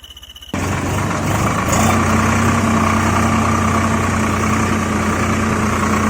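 A vehicle engine idling steadily, cutting in abruptly about half a second in.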